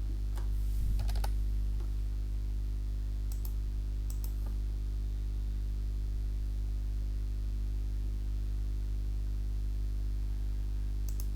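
A steady low electrical hum with a handful of scattered clicks from a computer keyboard, a few in the first seconds and one near the end.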